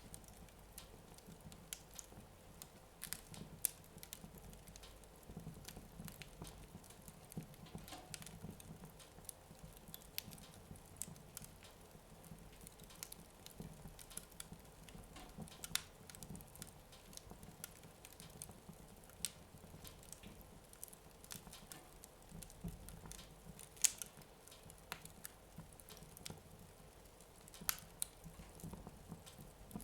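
Wood fire in a fireplace burning low, with sparse, irregular sharp crackles and pops over a faint low rumble.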